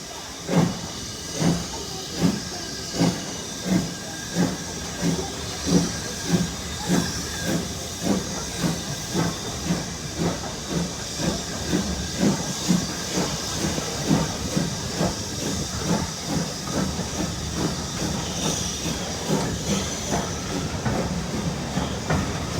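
Steam locomotive working under steam, its chimney exhaust beating in a steady rhythm over a continuous hiss of steam. The beats come closer together as it goes, from a little over one a second to two or three a second, as the engine gathers speed.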